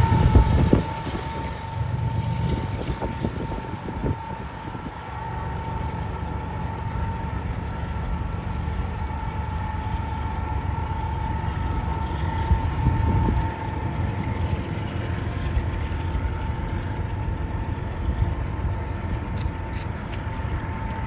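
Freight train rolling past with a steady low rumble of wheels and cars, and a steady high-pitched wheel squeal held throughout.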